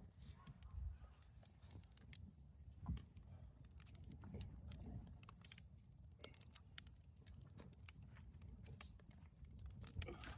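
Campfire crackling faintly: scattered irregular pops and snaps over a low rumble.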